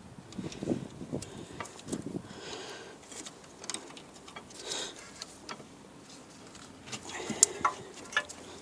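Scattered light metallic clicks and clinks, with a couple of brief scrapes, from the rear brake caliper's spring clip and pads being handled and fitted; the sharpest clicks come near the end.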